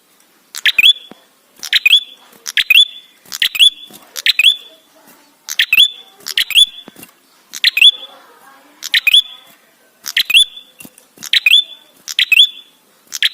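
Tailorbird (prenjak kepala merah) calling: a run of short, loud phrases about once a second, each a sharp note followed by a quick rising whistle, starting about half a second in.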